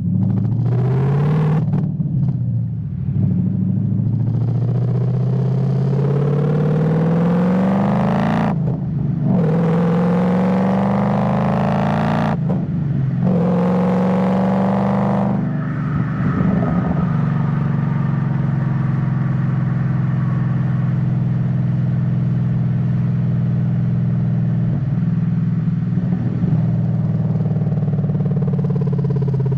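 Ford Mustang GT (S197) V8 accelerating through the gears of its manual gearbox: the engine note rises in each gear and drops sharply at four upshifts. For the second half it settles into a steady cruise.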